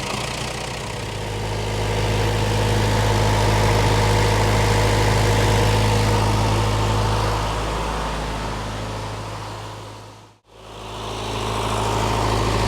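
Case 1840 skid steer's four-cylinder Cummins diesel engine running steadily at idle. About ten seconds in the sound fades out briefly and comes back, as at an edit.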